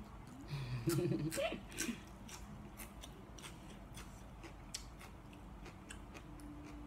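Close-miked chewing of a mouthful of crisp raw salad greens: a quick run of sharp, wet crunching clicks, with a short hummed 'mm' about a second in.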